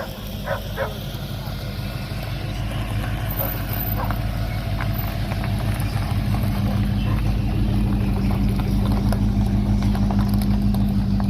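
A car engine running at a steady low pitch, growing gradually louder as it draws near.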